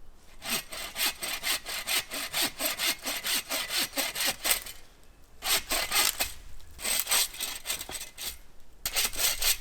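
Hand saw cutting through a wooden stick or branch in quick back-and-forth strokes, several runs of strokes broken by short pauses.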